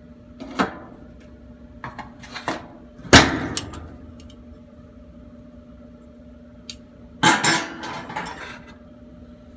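Plastic retaining tabs on a washing machine's cover being pried and popped off: irregular sharp clicks and knocks, the loudest about three seconds in and a short cluster of them near the end.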